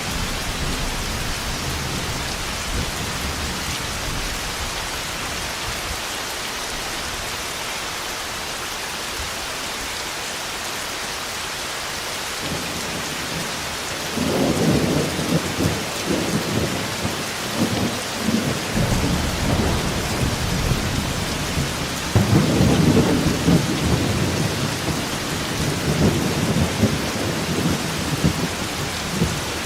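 Steady heavy rain with rolling thunder: a long rumble sets in about halfway through, dies down, and a second rumble starts a few seconds later and keeps going.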